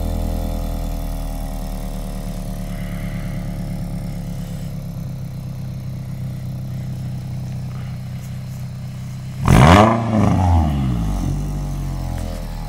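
2012 Scion tC's 2.5-litre four-cylinder idling through a straight-piped axle-back exhaust with no muffler. About ten seconds in it is revved once sharply and falls back, blipped once more briefly, then settles to idle.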